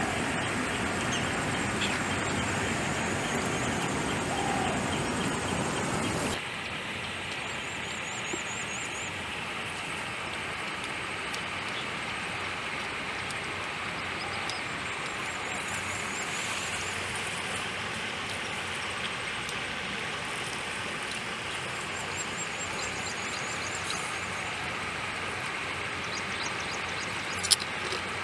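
Steady outdoor background noise that drops to a quieter level about six seconds in. Faint high chirping trills come now and then, and there is a single sharp click near the end.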